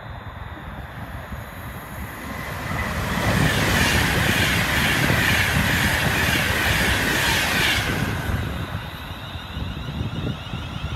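Intercity express train passing through a station at speed: wheel and air rush that swells about three seconds in, stays loud, and stops abruptly near eight seconds. Before and after it, a lower rumble.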